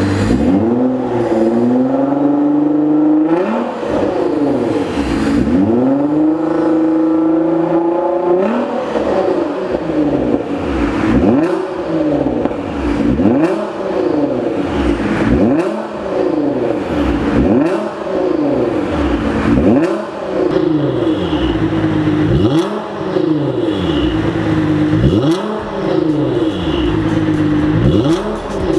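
Nissan GT-R R35's twin-turbo 3.8-litre V6 running through an HKS exhaust with an aftermarket front pipe and Y-pipe, revved repeatedly. Two longer revs are held for a few seconds each, then short blips follow about every two seconds, each rising and falling back in pitch.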